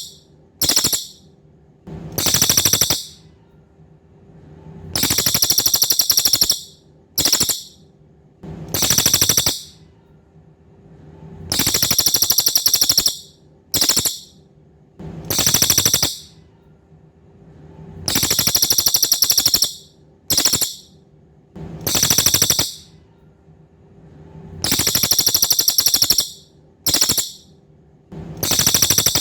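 Cililin birdsong from a looped training recording: a shrill, high trill of about a second and a half, a short chirp, then a second trill of about a second. The set repeats about every seven seconds.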